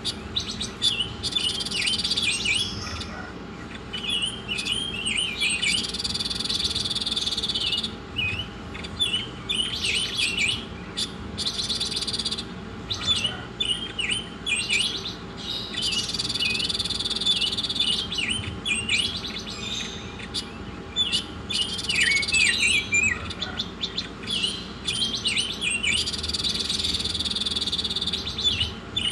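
A songbird singing a tutor song. Clusters of quick, sharp chirps alternate with long, fast, buzzy trills of about two seconds each, several times over.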